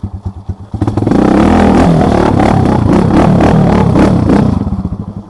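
Motorcycle engine idling with a fast even pulse, revved hard about a second in and held high for about three and a half seconds with clattering noise over it, then dropping back to idle near the end.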